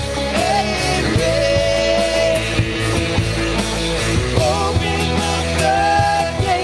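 Live rock worship band playing a loud passage without lyrics: steady drum hits, bass and chords under a held lead melody line that slides and bends in pitch.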